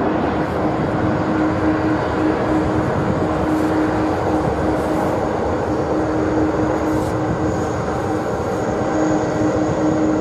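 A vehicle running steadily: an even rumble and hiss with a steady low hum over it.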